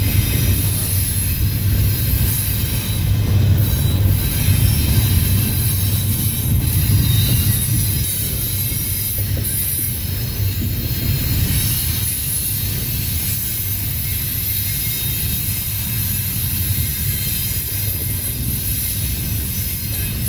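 Double-stack container train's well cars rolling steadily past, a deep low rumble with a high hiss of wheels on rail; a little louder for the first several seconds, then even.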